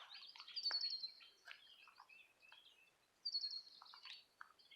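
Wild birds singing and calling: two quick, high trills of rapid notes about two and a half seconds apart, over scattered fainter chirps.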